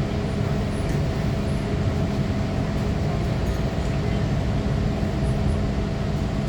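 Inside an MTR M-Train carriage: a steady low rumble with a constant hum of a few fixed tones, unchanging in pitch.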